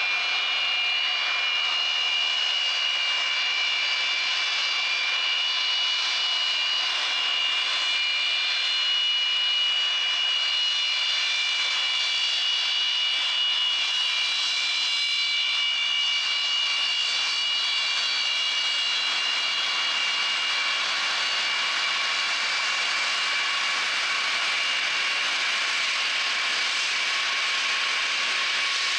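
Jet aircraft engines running with a steady high-pitched whine over a rushing hiss.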